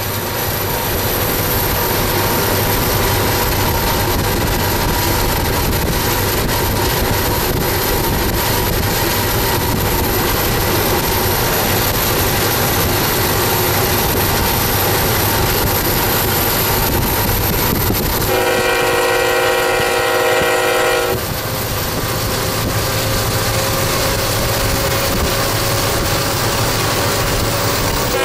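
Diesel locomotives of a freight train running at speed, a steady rumble and drone with a couple of held tones. About two-thirds of the way through, a locomotive horn sounds one long blast of about three seconds, several notes at once.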